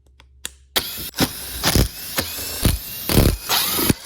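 A handheld power tool running hard after a short pause, with several heavy knocks through the noise.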